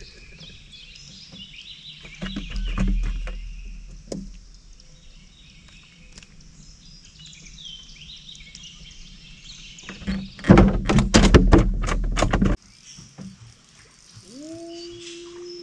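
Songbirds chirping and singing steadily in the background, with a few knocks a couple of seconds in and a loud burst of clattering about ten seconds in that lasts about two seconds. Near the end a low hum starts, rising briefly in pitch and then holding steady.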